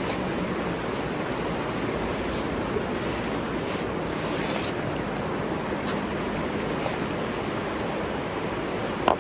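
River water rushing steadily, with a single sharp click near the end.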